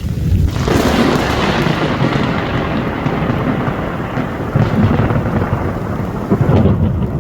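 A close thunderclap cracks about half a second in and rolls on as a low rumble, over heavy rain.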